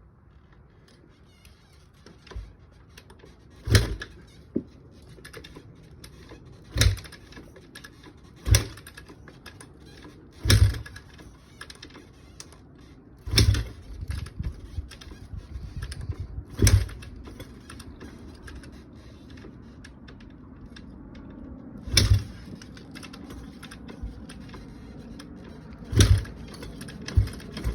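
Kawasaki KX250F four-stroke single being kick-started over and over without firing: about eight kicks a few seconds apart, each a sharp clack followed by a brief churn of the engine turning over. Near the end a quicker run of short pulses. The bike will not start even though fuel, air and spark are all present.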